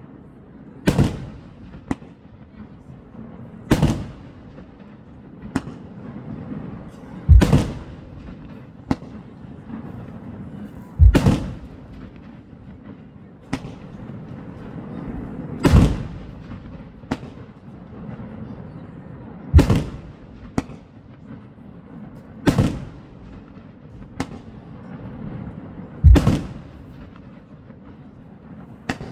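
Fireworks shells bursting: a loud bang every three to four seconds, with fainter cracks in between.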